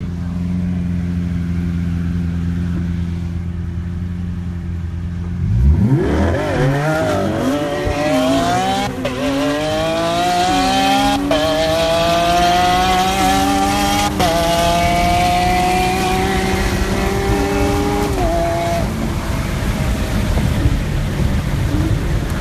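Sports-car engines in a standing-start drag race between a Nissan GT-R and a Lamborghini Aventador SV, heard from inside one car's cabin: steady idle for about five seconds, then a hard launch with the engine note climbing and dropping back at each of four upshifts, easing off near the end.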